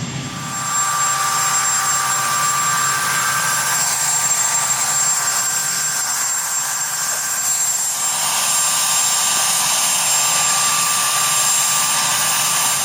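Marine One helicopter's turbine engines running, a loud steady rushing noise with a high whine. The hiss grows brighter about two-thirds of the way through.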